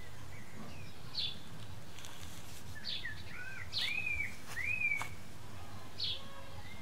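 Birds calling outdoors: short high chirps repeating every second or two, with a few rising-and-falling calls around the middle, over a steady low background rumble.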